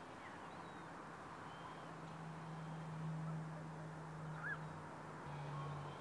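A few faint short bird calls, the clearest a brief note about four and a half seconds in, over an even hiss and a steady low hum that drops in pitch about five seconds in.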